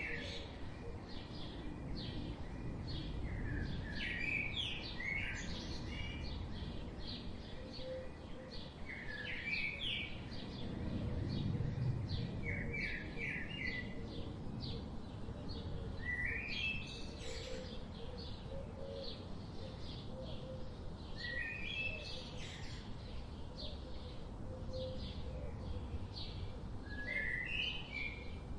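Birds chirping in short rising runs of notes every few seconds, over a steady low background rumble and a faint, even ticking.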